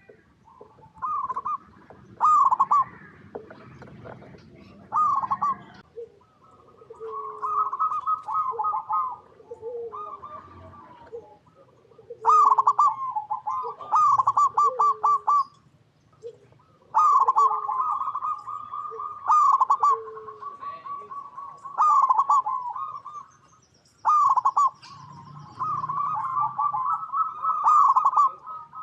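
Zebra doves (perkutut) singing their rapid, rolling cooing song in repeated bouts of one to four seconds, with short pauses between them.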